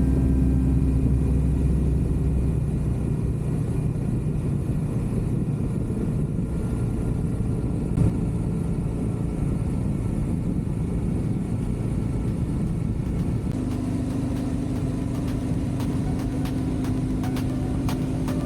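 Steady engine and road noise of a moving motorcycle, with a low engine tone settling in near the end.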